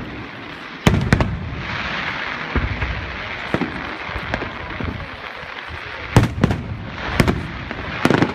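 Fireworks display: aerial shells bursting in a string of sharp bangs over a steady crackling hiss, the loudest bangs coming in a cluster about six to eight seconds in.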